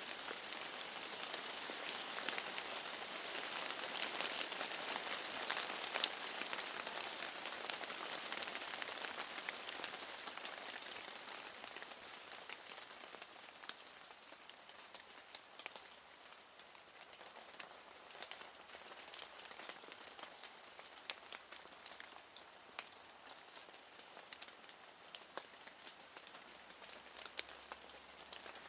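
Steady rain falling, with many single drops ticking through the hiss. The rain is heavier for the first third, then eases to a lighter fall where the separate drops stand out more.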